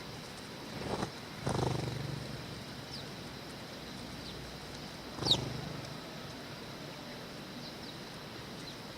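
Sparrows giving a few short, high chirps, the clearest about five seconds in, over a steady background hiss. Brief low rumbles come about a second in, around a second and a half in, and again about five seconds in.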